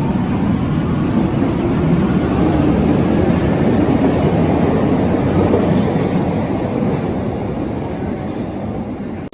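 Berlin U-Bahn large-profile train running on the rails: a steady, loud rumble that swells to a peak about halfway through and eases slightly toward the end.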